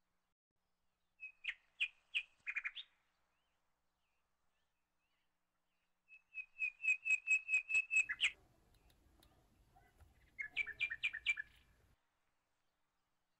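A bird chirping in three bursts of quick repeated high notes: a short run about a second in, a longer even trill of about nine notes around six to eight seconds in, and a final short run near the end.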